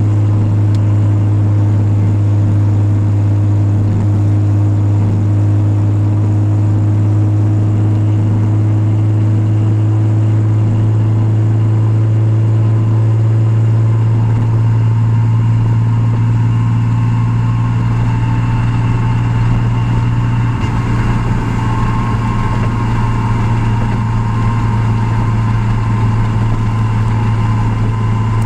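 Nissan 300ZX (Z32) V6 engine and road noise at steady highway cruise, heard from inside the cabin: a loud, constant low drone.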